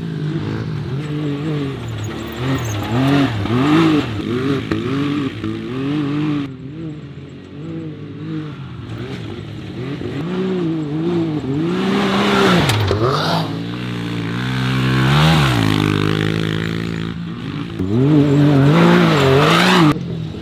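A pit bike and a Can-Am side-by-side racing on a dirt track, their engines revving up and down over and over. The pitch keeps rising and falling with each burst of throttle, with a few long drops as they back off.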